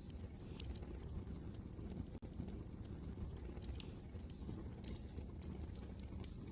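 Wood fire in a fireplace crackling, with irregular sharp pops and snaps, over a steady low rumble of wind.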